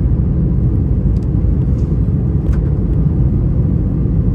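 Steady low rumble of engine and airflow noise heard inside an Airbus A321's passenger cabin on final approach, with a faint steady hum.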